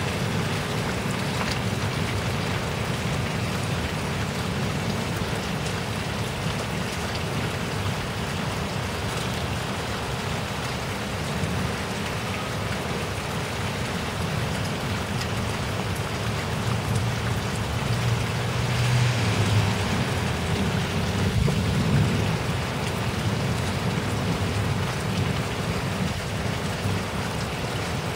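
Heavy rain falling steadily in a severe thunderstorm, a dense even hiss with a low rumble beneath it. The sound swells louder for a few seconds about two-thirds of the way through, then eases back.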